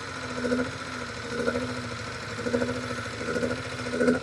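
Hyundai Tiburon engine idling roughly with a rapid misfire and a knock or tick, its note swelling and dipping about once a second. The owners are sure it is misfiring and take the tick for a lifter or injector tick rather than rod knock.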